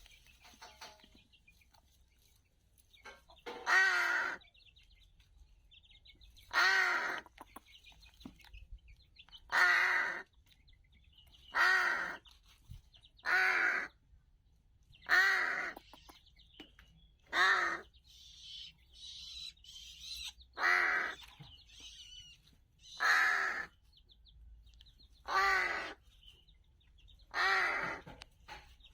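A bird calling again and again, about eleven pitched calls of roughly half a second each, two to three seconds apart, with faint high twittering between them.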